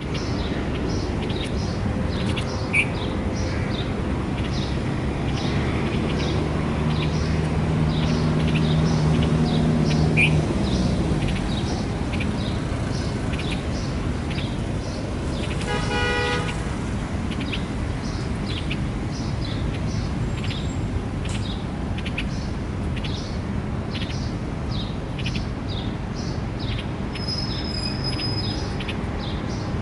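Many small birds chirping in short, repeated calls over a steady traffic rumble. A vehicle engine drones louder, peaking and dropping away about ten seconds in, and a car horn sounds briefly around the middle.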